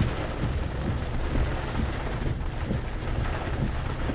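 Heavy rain falling steadily, with a low rumble of wind underneath.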